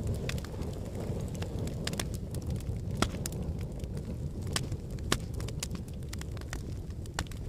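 Logs burning in a fireplace: a steady low rush of flame with scattered sharp crackles and pops, the loudest pop about three seconds in.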